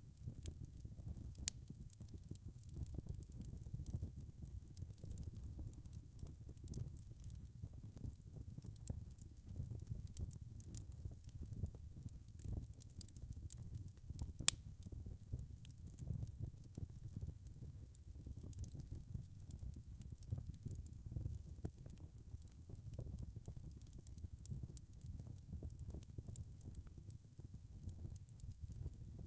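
Wood fire crackling, with a low steady rumble of flames under frequent small crackles and one louder pop about halfway through.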